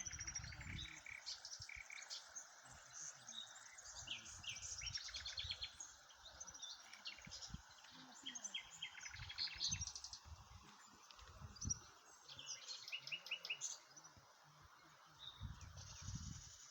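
Several small birds chirping and singing in short, high trills and calls, overlapping, with irregular low rumbles underneath.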